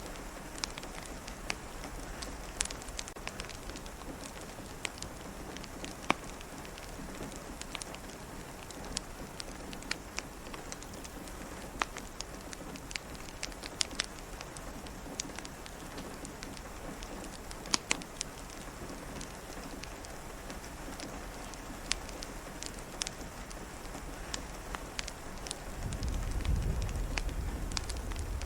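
Steady rain with scattered sharp crackles and pops from a wood fire. A low rumble of thunder builds near the end.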